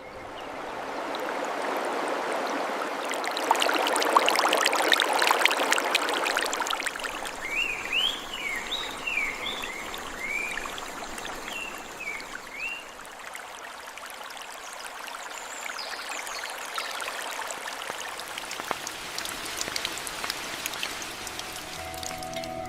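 Water running steadily, like a stream, loudest around four to six seconds in, with a run of short rising-and-falling chirps, a bird calling, from about eight to thirteen seconds in.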